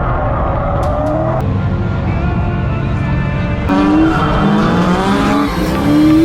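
Drift cars' engines revving up and down with tires squealing, in short cuts that change abruptly about a second and a half in and again near the middle.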